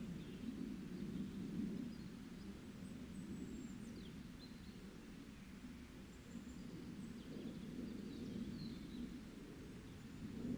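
Faint, scattered bird chirps and short high whistles, a few sliding downward, over a steady low rumbling background.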